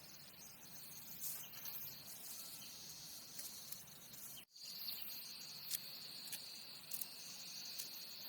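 Insects chirring steadily in a high, even band, with a few faint clicks. The sound cuts out for an instant about halfway through and resumes with a slightly different steady tone.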